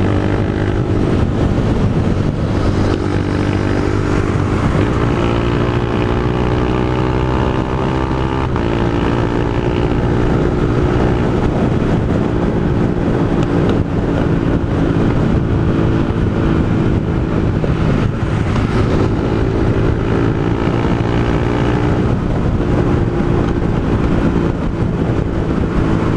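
Honda Fan 160 single-cylinder motorcycle engine through a Pro Tork GP Competition aftermarket exhaust, running under way. The engine pitch climbs and drops sharply twice, about five and eight seconds in, as it shifts up through the gears, then holds fairly steady.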